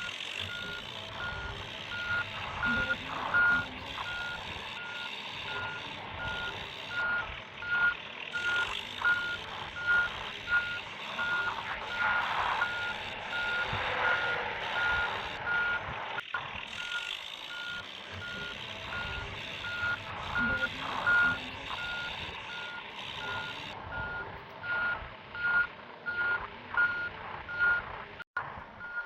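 Vehicle reversing alarm beeping at an even pace, about three beeps every two seconds, over a steady clatter of scraping and clicking.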